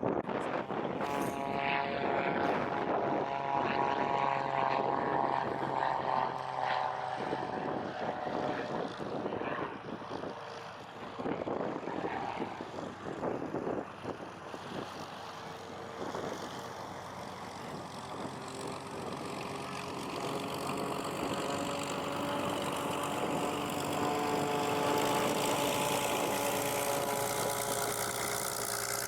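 Propeller airplane engine droning overhead. The drone fades away after several seconds, then builds again and grows louder through the second half, with gusty wind noise underneath.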